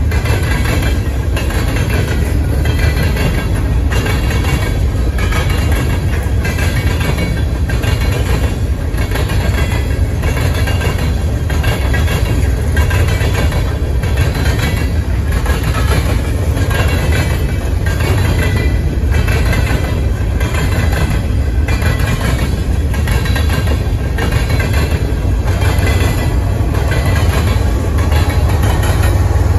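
Loaded covered hopper cars of a long freight train rolling past: a steady low rumble with a regular clickety-clack of steel wheels over rail joints. Near the end the rear distributed-power locomotive, a GE ES44AC diesel, comes past.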